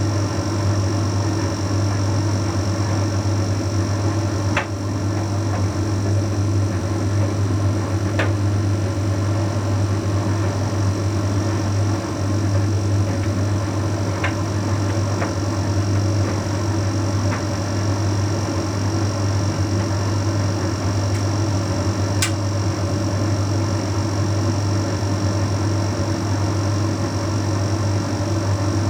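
Bosch Series 6 heat pump tumble dryer running mid-cycle with a steady low hum, with a few short sharp ticks from the tumbling load.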